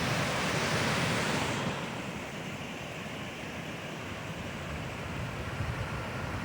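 Mountain stream rushing over rocks in small cascades, a steady noisy roar. It turns slightly quieter and duller a second and a half in.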